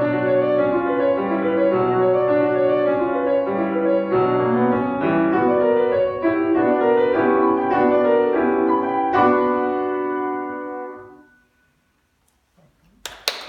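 Solo piano playing the closing bars of a piece. A final chord about nine seconds in rings and fades away to silence. Clapping starts just before the end.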